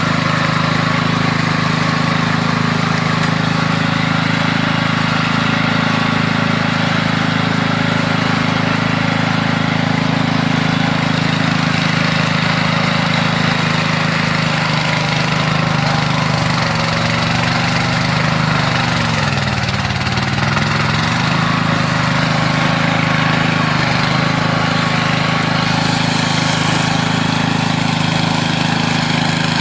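Orchard weed mower with a wire-string cutter running steadily at working speed. Its engine note dips in pitch and recovers about two-thirds of the way through, over a steady high whine.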